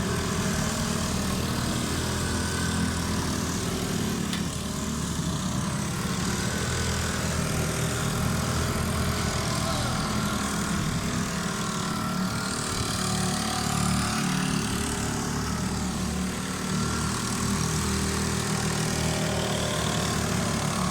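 Small engines of bumper boats running, a steady low drone that wavers a little in pitch.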